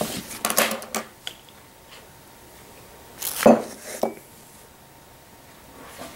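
Clattering and knocking of hard objects: a quick cluster of clicks and knocks in the first second, then a louder clatter about three and a half seconds in and another knock just after.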